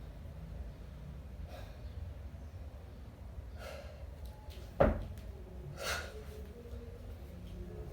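A kettlebell lifter's sharp, forceful breaths, three of them about two seconds apart, during a one-arm long cycle set. A single sharp knock, the loudest sound, comes just before the second breath ends, over a steady low hum.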